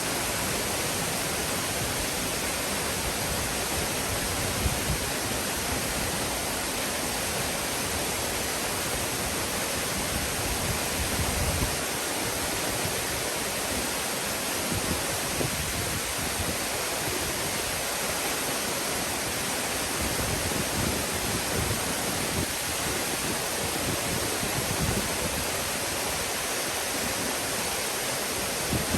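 Nunobiki Falls waterfall rushing in a steady, even roar of falling water.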